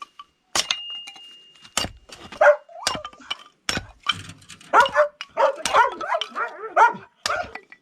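A dog barking repeatedly, with a quick run of barks from about five seconds in, mixed with sharp clinks and knocks.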